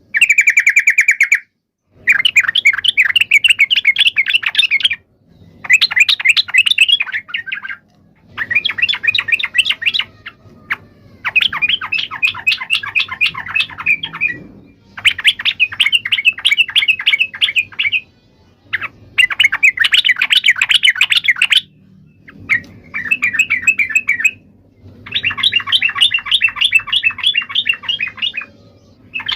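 Yellow-vented bulbul (trucukan) giving its chattering fighting call: bursts of rapid bubbling notes a couple of seconds long, repeated again and again with short pauses between them.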